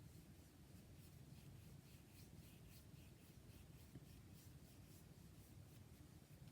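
Faint, repeated rubbing strokes on paper, several a second, as white paint is worked onto a journal page.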